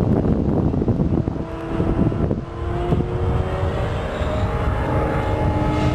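Electric RC racing plane with a brushless outrunner motor and 13x13 propeller flying past, its propeller giving a steady buzzing tone that sets in about a second in, after a moment of wind on the microphone.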